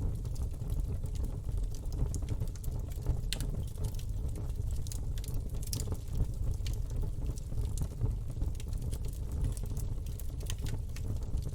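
Campfire burning, a steady low rumble with frequent irregular crackles and pops from the wood.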